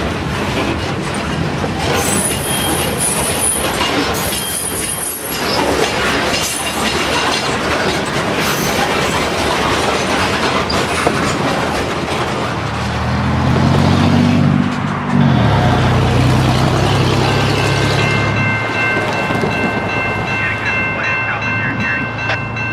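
Freight train rolling past, its wheels rumbling on the rail with bursts of high flange squeal. About halfway through, diesel locomotives come by close, their engine drone dropping in pitch as they pass. A steady high wheel squeal follows.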